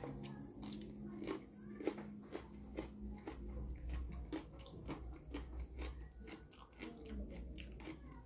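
A man biting into and chewing raw okra, with many small wet crunches and mouth clicks at close range.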